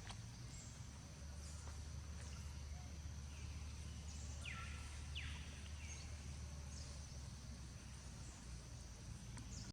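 Faint outdoor ambience: a steady high-pitched insect drone over a low hum, with a few short falling chirp-like calls, two of them close together near the middle.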